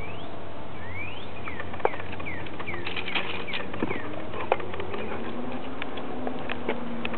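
Small birds chirping in short rising and falling calls over the first few seconds, with a few sharp clicks scattered through.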